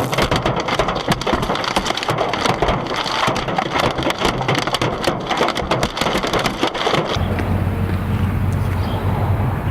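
Heavy hail pelting a car's body and glass: a dense, rapid clatter of countless impacts. About seven seconds in, the clatter gives way to a steady low rumble.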